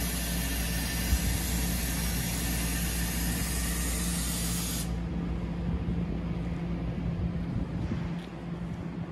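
Compressed air hissing loudly from a stopped NJ Transit train, typical of air brakes venting, cutting off suddenly about five seconds in. Under it runs the steady hum of an ALP-46A electric locomotive standing at the platform.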